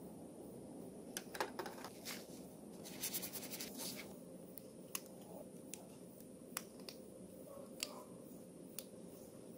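Scattered sharp clicks and taps of small hand work on a phone's parts, with a quick run of clicks about three seconds in, over a faint steady hum.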